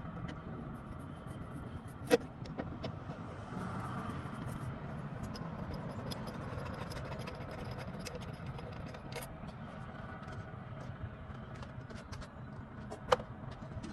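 Hand work on the truck: a few sharp clicks and knocks of tools and parts being handled, the loudest about two seconds in and near the end. Under them runs a steady low rumble.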